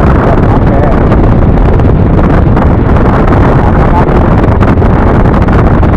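Steady wind rush on the microphone of a rider on a moving Yamaha NMAX scooter, mixed with road and engine noise.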